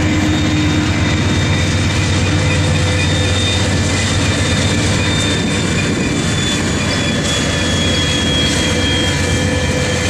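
Union Pacific freight train of boxcars rolling past: a steady rumble of wheels on rail, with thin high tones over it, one of them slowly falling in pitch.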